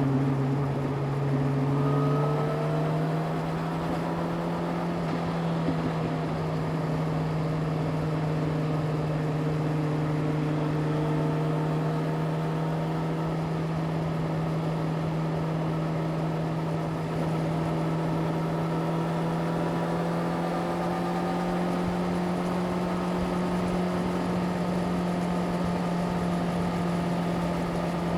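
Yamaha YZF-R6 inline-four engine running at steady revs. Its pitch steps up about two seconds in, then climbs slowly.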